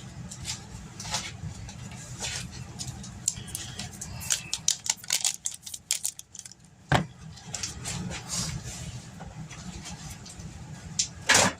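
Kitchen handling noises over a steady low hum: crinkling and rustling with a quick run of small clicks, a single sharp knock, and a louder rustle near the end, as a foil-wrapped block of cream cheese is fought open.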